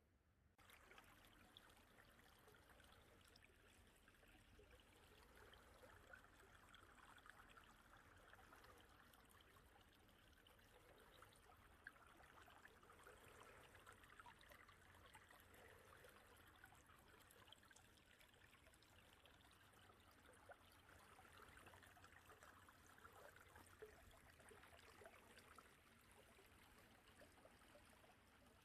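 Faint, steady rush and trickle of a mountain valley stream, starting abruptly about half a second in.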